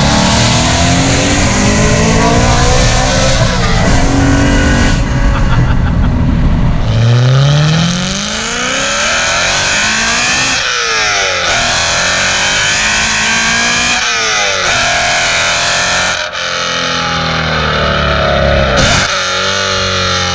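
BMW E92 M3's V8 through an aftermarket Armytrix exhaust, pulling hard and loud. The pitch climbs and then drops at each gear change, several times over.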